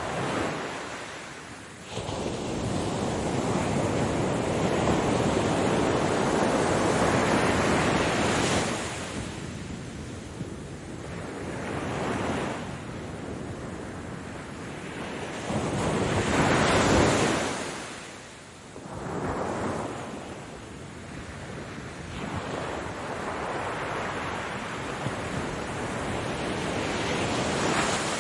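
Ocean surf: waves breaking and washing up the shore, the rushing noise swelling and falling away every few seconds. The loudest crash comes a little past the middle.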